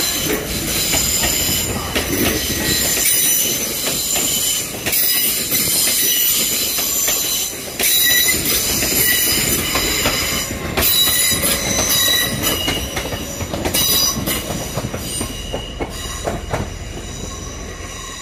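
TransPennine Express Class 802 passenger train passing close by on curved track, its wheels squealing in several steady high tones over the running rumble, with scattered clicks over rail joints. The sound eases off in the last few seconds.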